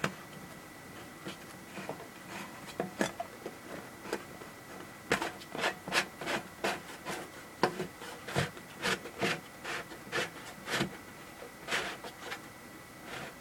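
Handling noise: a run of short rubbing scrapes and clicks, most frequent through the middle, over a faint steady high tone.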